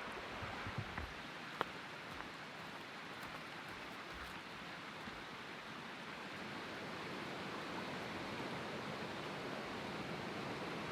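Steady rush of flowing river water, growing slightly louder towards the end, with a few faint clicks in the first couple of seconds.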